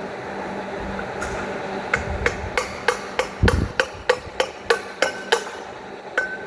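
Sharp metallic taps with a short ring, starting about two seconds in and repeating evenly about three times a second.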